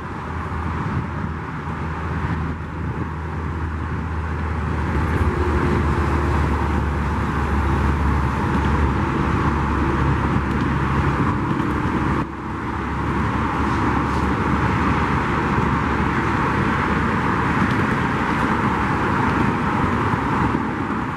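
Metrolink commuter train passing, a steady low diesel drone over the continuous rush of freeway traffic. After a brief drop about halfway, mostly traffic noise is left.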